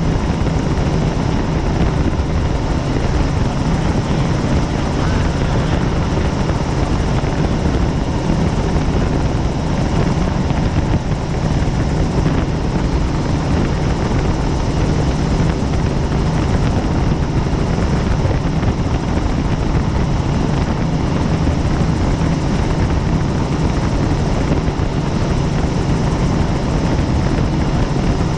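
Helicopter in flight: the steady, unbroken drone of rotor and engine.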